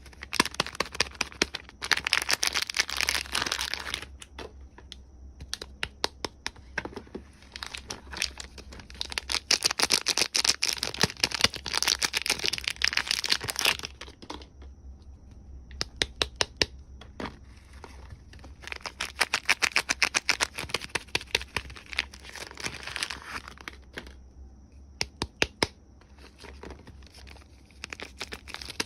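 Soap packaging being unwrapped by hand: the wrapper crinkles and tears in three long spells, with quick rows of sharp clicks in between.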